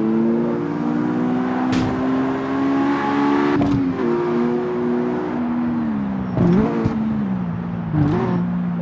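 Toyota GR86's 2.4-litre flat-four engine running under way, its note climbing slowly at first, then falling in a few steps in the second half. A few short knocks sound over it.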